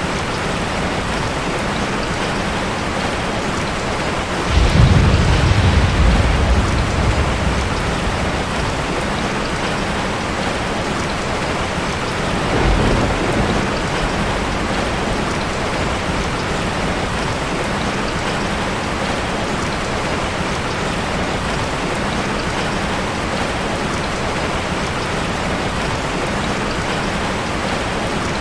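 Steady hiss of ocean surf, with a heavy wave breaking in a deep rush about four seconds in and a smaller one near the middle.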